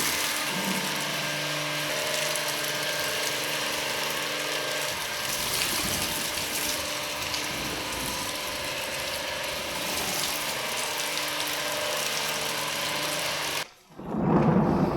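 A motor-driven detailing tool running with a steady, rattling mechanical whir. It cuts off abruptly near the end, and a brief loud low sound follows.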